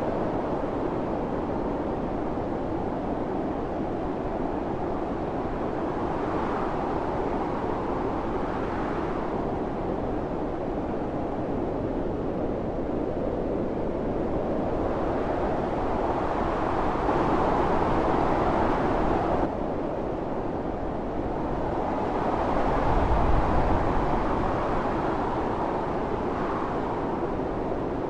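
Howling blizzard wind, a steady rushing noise that swells and eases in slow gusts, with stronger surges about a third of the way in and again near the end, and an abrupt drop in strength about two-thirds of the way through.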